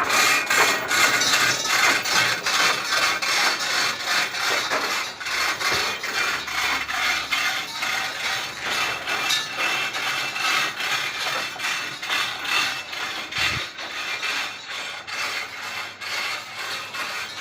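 Rhythmic rubbing and scraping, about two to three strokes a second, slowly getting quieter toward the end.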